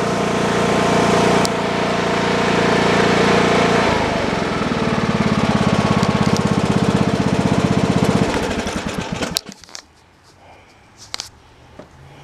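John Deere lawn tractor engine running steadily, dropping about four seconds in to a slower, pulsing idle, then shut off a little after eight seconds and winding down to a stop. A few faint clicks follow.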